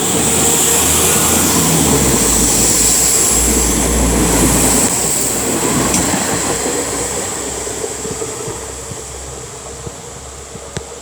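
Class 172 Turbostar diesel multiple unit pulling out of the station: a deep diesel engine rumble with wheel and rail noise, loud for the first few seconds, then fading away as the train moves off.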